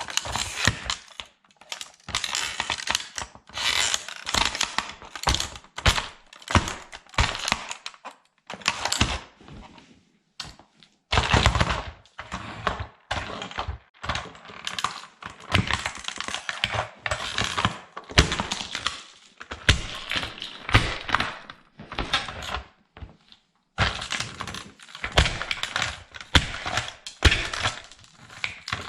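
Toy military truck cracking and breaking under a sandal, in runs of quick cracks and crunches with a few short pauses.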